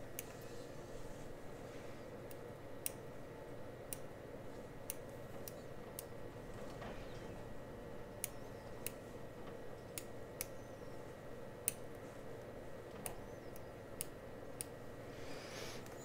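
Sharp, scattered clicks and taps, roughly one a second, over a steady low hum, with a soft brushing rustle about seven seconds in and again near the end.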